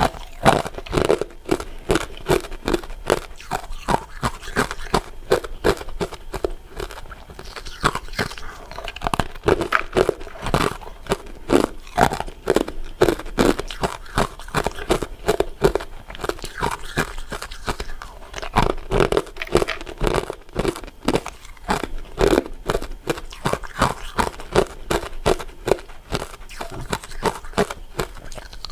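A person biting into and chewing crunchy pieces of crystal ice dessert, with a dense, irregular run of crisp crunching clicks.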